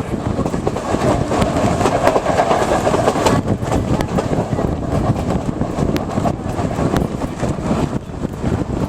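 A passenger train's wheels rumbling and clattering on the rails, heard from aboard the moving train, with scattered sharp clicks.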